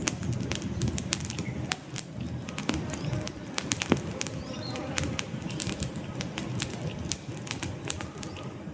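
Wood fire crackling, with irregular sharp pops and snaps over a steady low rumble of flames; the loudest pop comes about four seconds in. A few faint short high chirps are heard now and then.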